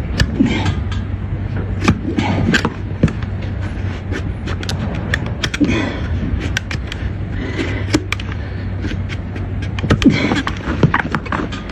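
Trimming of a donkey's overgrown front hoof: irregular sharp clicks and scrapes of the cutting tool on hoof horn, over a steady low hum.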